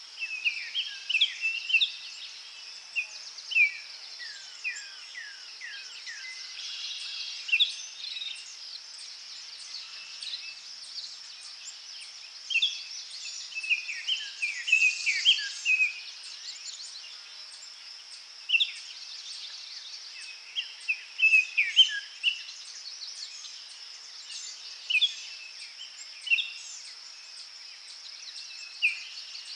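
Forest birds chirping in quick clusters of short, mostly falling notes, over a steady high-pitched drone of insects.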